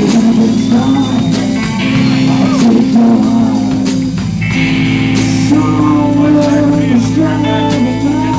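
Live band playing a blues-rock song: electric guitar, bass and drum kit, with a voice singing over it.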